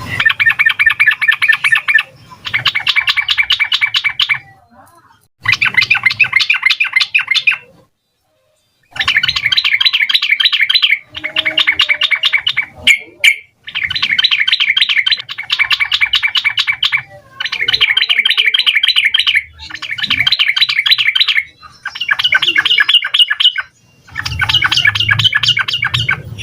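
Yellow-vented bulbul singing in bursts of rapid, repeated chattering notes, each burst about two seconds long with short pauses between, one longer pause about eight seconds in.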